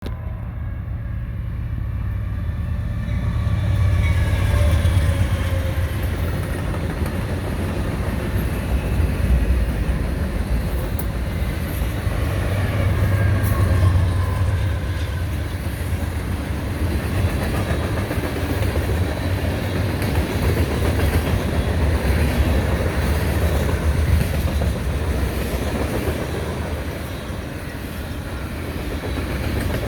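Diesel locomotives of a long freight train passing: a deep engine rumble that swells several times as units go by, with faint tones falling in pitch as they pass, over steady rolling rail noise.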